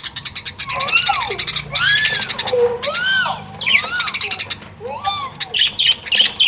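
Budgerigars squawking and chattering as they squabble over food: a run of harsh, arching squawks about once a second over a fast, high chatter.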